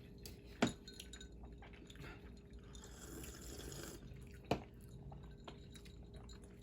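Quiet eating sounds from a person eating a fast-food burger: two sharp clicks about four seconds apart, with a brief soft hiss between them.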